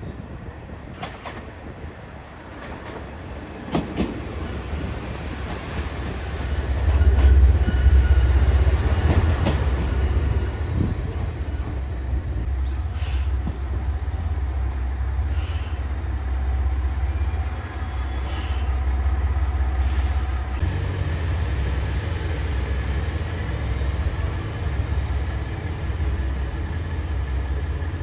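JR Shikoku 1500 series diesel railcar running, a heavy low rumble building up about six seconds in and holding loud. Four short high squeals come in the middle.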